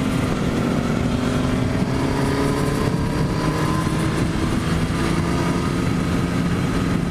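Motorcycle engine running at road speed with wind rushing past, its note climbing slowly over the first few seconds as the bike gains speed, then holding steady.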